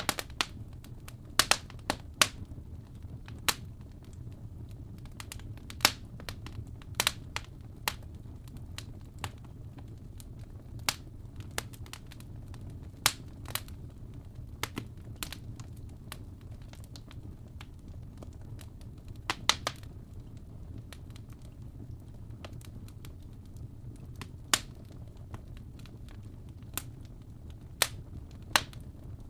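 Fire burning in a fireplace: a steady low rumble of the flames with irregular sharp crackles and pops, sometimes two or three close together.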